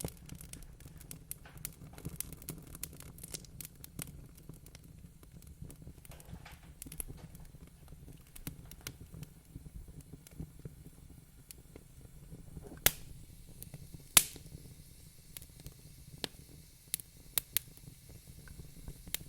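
Fireplace fire crackling: dense small crackles over a low steady rumble, with two loud sharp pops about 13 and 14 seconds in and a few smaller pops near the end.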